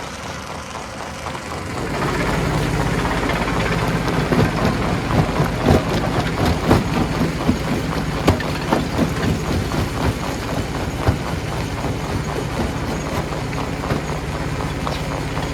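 Stone crusher running: a steady machine drone comes up about two seconds in, with rocks cracking and knocking irregularly over it, the knocks thinning out after about eleven seconds.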